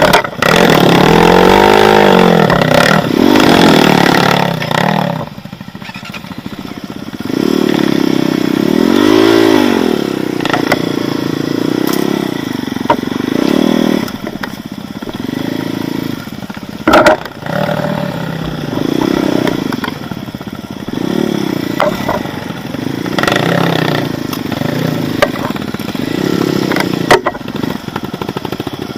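Off-road motorcycle engine revving up and down over and over as it works through rough forest terrain, its pitch rising and falling every second or two. A few sharp knocks and clatters cut through it.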